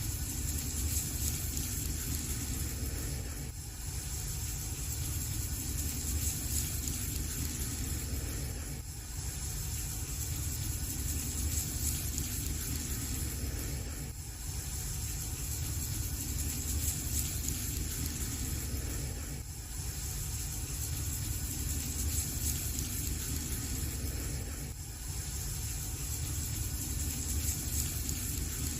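Fireplace fire burning as a steady low rumble with hiss, dipping slightly in level about every five seconds in a regular repeating pattern.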